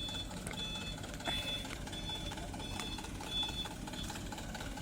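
Dump truck's reversing alarm beeping steadily, roughly once every 0.7 seconds, over the low running of its diesel engine; the beeps stop near the end.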